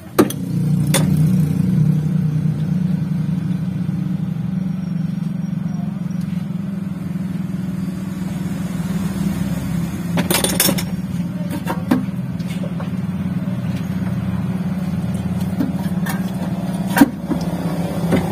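A motor vehicle engine running steadily at idle, with a few sharp metal clanks from hand tools, the loudest near the end.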